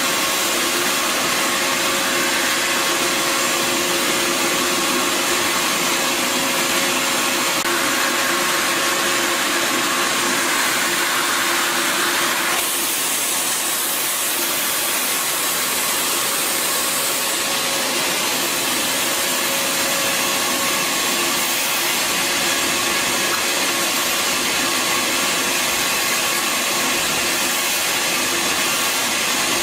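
Bissell Garage Pro wet/dry vacuum's 12-amp motor running steadily with a whine and a rush of suction. The rush changes character a few times, brightening about a third of the way in and shifting higher around the middle.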